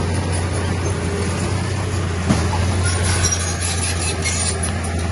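Heavy earthmoving machine's diesel engine running steadily with a deep drone. There is a single knock a little over two seconds in and faint high squeaks later on.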